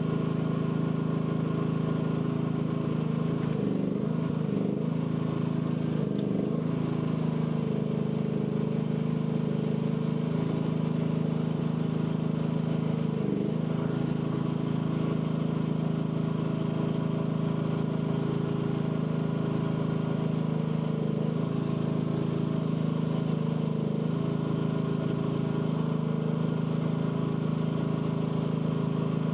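AGT L12 mini excavator engine running steadily, its pitch sagging briefly several times.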